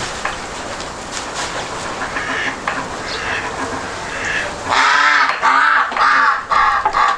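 Crows cawing: scattered fainter caws, then four loud harsh caws in quick succession over the last couple of seconds, over a steady background hiss.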